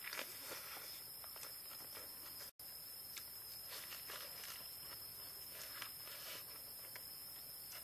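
Close-up eating sounds: crisp lettuce leaves crunching and rustling and wet chewing clicks as a leaf-wrapped bite is eaten. A thin, steady, high-pitched insect drone runs underneath.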